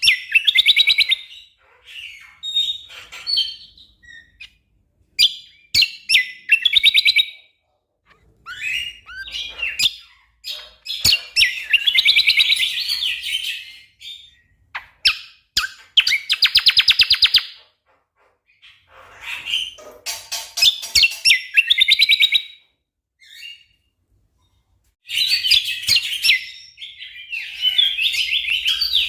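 A cucak kombo songbird singing in bursts of rapid, densely packed trills and chattering notes, each burst lasting a second or two, separated by short pauses.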